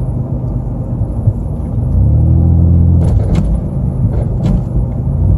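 Steady low engine and road drone heard inside a moving vehicle's cab, growing stronger about two seconds in, with a few light clicks about three and four and a half seconds in.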